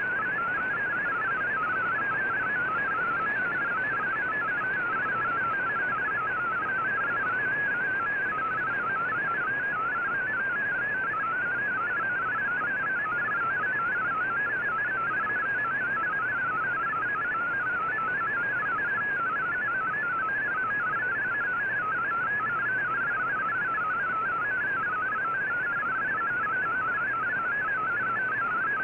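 Shortwave MFSK digital-mode data signal from the VOA Radiogram broadcast: a continuous warbling stream of rapidly hopping single tones in a narrow band, heard over steady receiver hiss.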